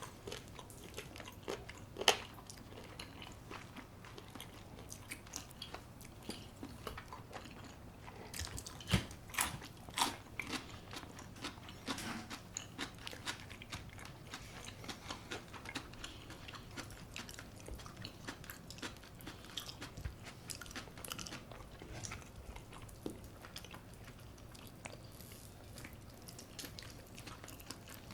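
Close-miked eating: repeated crisp bites and crunchy chewing, typical of the crunchy brown-rice coating of baked chicken, with the sharpest crunches about 2 seconds in and around 9 to 10 seconds in.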